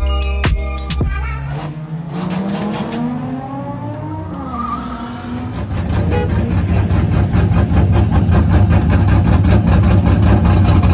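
Car engines revving, their pitch rising and falling and overlapping, after the tail of beat-driven music fades in the first second or so. From about six seconds in, a louder, steady engine rumble takes over.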